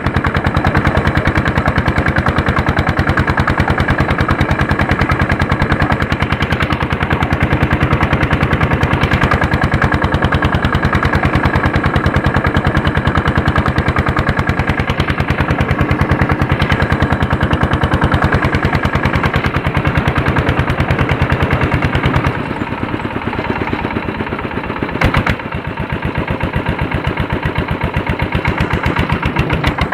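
Andoria 1HC102 single-cylinder diesel engine of a tractor pulling a harrow, running with rapid, even firing beats. About 22 seconds in it drops lower and quieter for several seconds, with a single sharp knock partway through, then picks up again near the end.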